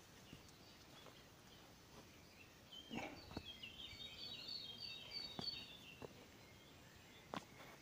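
Faint bird song: a quick run of short, high chirps that starts about three seconds in and lasts about three seconds, with a few scattered faint clicks.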